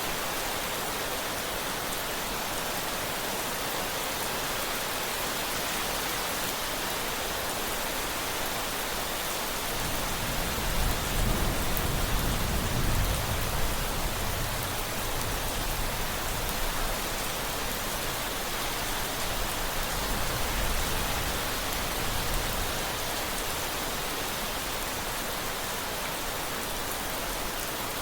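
Steady rain hiss, with a low rumble of thunder rising about ten seconds in and peaking a few seconds later, and a smaller rumble around twenty seconds.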